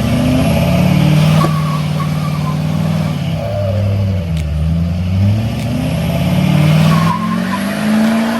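A tractor engine revving hard under load, its pitch falling and rising several times as it strains to back the tractor out of deep mud.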